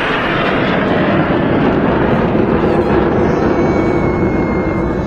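Display aircraft flying past, a loud steady roar of engine noise, with a thin high whine joining it about three and a half seconds in.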